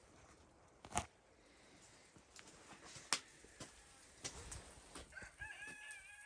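Footsteps crunching in snow: a few scattered sharp crunches, the loudest about one and three seconds in. From about five seconds in, a faint, steady high-pitched tone.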